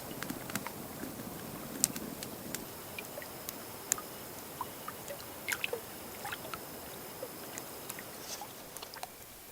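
Gentle water sounds: a soft sloshing wash with scattered small drips and sharp little splashes at irregular moments, the loudest about two and four seconds in and a cluster around five and a half seconds.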